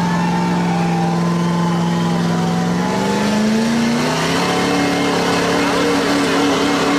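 Off-road vehicle engine running at a steady speed, then revving up about three seconds in and holding at the higher revs.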